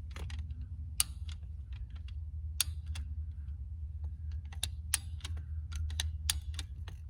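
Hand-cranked fence stretcher ratcheting as it tightens fence wire: a run of sharp, irregular clicks over a steady low rumble.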